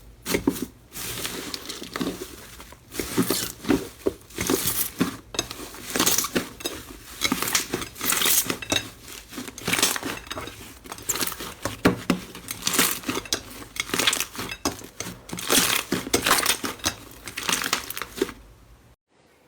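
Slime being handled, giving a dense run of irregular crackles and pops that cuts off suddenly near the end.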